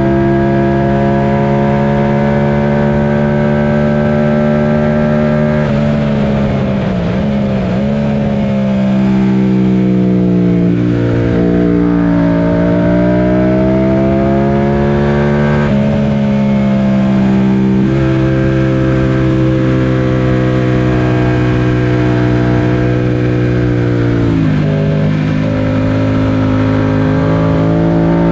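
Yamaha FZ-07's 689 cc parallel-twin engine, heard from aboard the bike, running hard at high revs. The engine note holds steady, then wavers and falls about six seconds in, sinks and climbs again through the middle, and drops sharply near the end before pulling up again, as the rider rolls off and gets back on the throttle through the corners.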